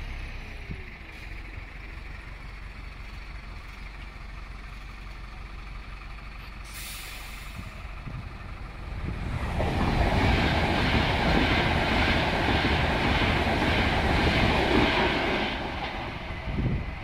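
Electric passenger train passing over a level crossing: a low steady rumble builds into a loud rush of wheel and rail noise about nine seconds in, lasts some six seconds and then drops away.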